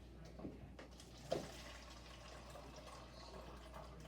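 Faint dripping water, with two soft knocks about half a second and a second and a half in.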